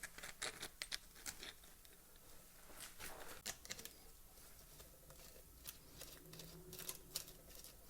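Faint, scattered clicks and light taps of small string-trimmer parts being handled during repair.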